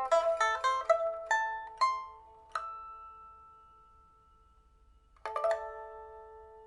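Solo pipa of Belize rosewood by Wang Zhengming, with a steel first string and copper strings, being test-played after repair of its neck, soundboard and frets. A quick run of plucked notes ends on a note left to ring and fade. After a short pause, a rolled chord about five seconds in rings out.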